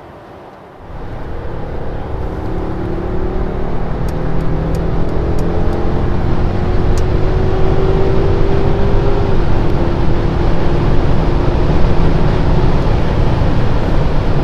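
Mercedes-Benz S580 V8 engine pulling hard at autobahn speed in Sport Plus mode, with heavy road and wind noise. The sound jumps sharply in loudness about a second in and keeps building; the engine note climbs slowly and drops about nine seconds in, like an upshift.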